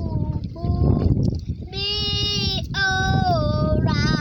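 Children's voices singing or calling out in long held notes, each about a second, the last one wavering in pitch, over a steady low rumble.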